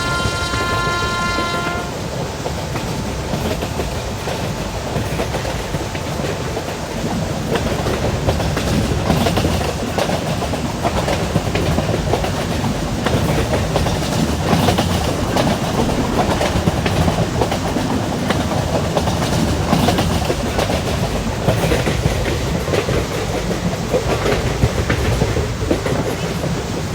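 Indian Railways locomotive horn sounding a steady chord that ends about two seconds in, then a train running with a continuous rumble and wheels clattering over rail joints.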